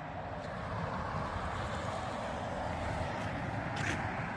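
Steady background rumble and hiss with no distinct event, and a short faint hiss just before the end.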